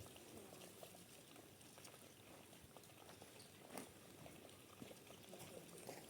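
Near silence: faint background hiss with a few soft clicks, one a little louder about four seconds in.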